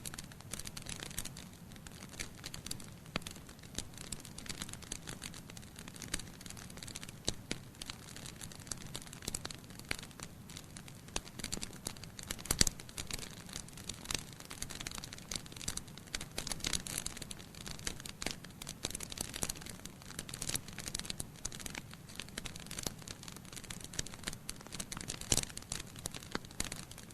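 Wood fire burning in a fireplace, logs crackling with constant irregular pops and snaps over a soft hiss, with a couple of sharper pops standing out.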